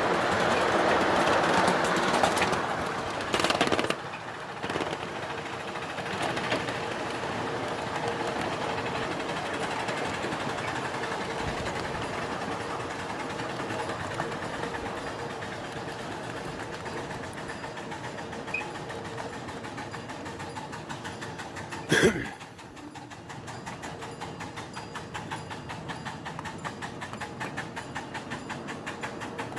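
Live-steam miniature ride-on train running along its track: a steady running noise, louder for the first few seconds, with a fast even clicking in the later part. A brief sharp loud sound stands out about two-thirds of the way through.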